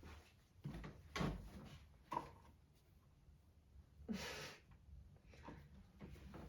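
A few faint knocks and bumps, then a short rustle about four seconds in.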